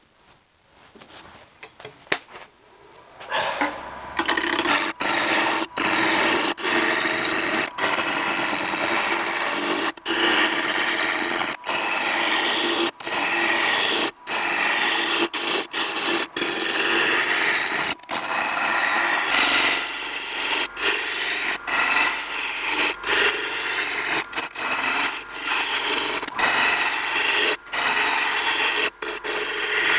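Bowl gouge cutting a spinning wood blank on a lathe: a steady rasping scrape that starts about three seconds in and is broken by many brief gaps.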